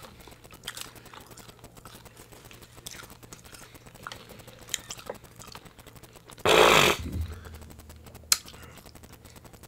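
Quiet eating at the table: faint chewing and small scattered clicks. About six and a half seconds in, a single short, loud burst of noise stands out, and a sharp click follows a couple of seconds later.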